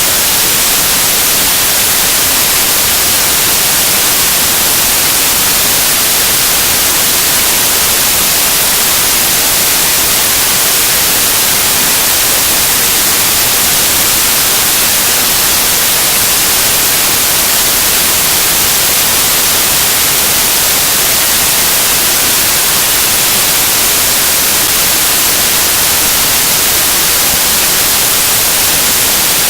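Loud, unchanging static hiss, strongest in the high end, with nothing else heard over it.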